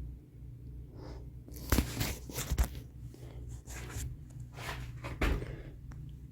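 Irregular knocks, scrapes and rustling of someone moving about and handling things, with a cluster of louder knocks about two seconds in and another about five seconds in, over a steady low hum.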